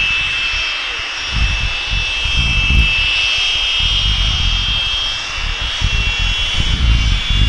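Rolls-Royce Viper turbojets of BAC Strikemaster jets running, a steady high whine of several close tones that drift slowly in pitch. Wind buffets the microphone with gusty low rumbles.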